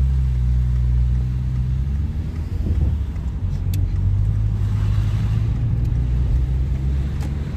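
Car engine and road noise heard from inside the cabin while driving: a steady low drone that shifts in pitch about two seconds in, with a single sharp click near the middle.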